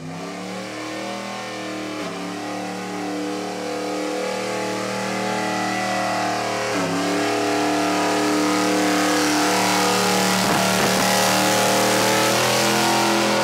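A truck engine revved and held at high, steady revs, with brief dips, growing louder as a hiss builds over it. It cuts off suddenly at the end.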